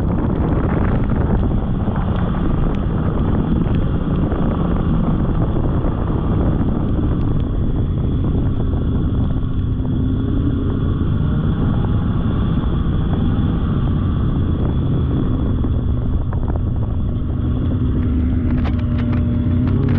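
Polaris snowmobile under way on a trail: a steady engine drone whose pitch rises and falls slightly with the throttle.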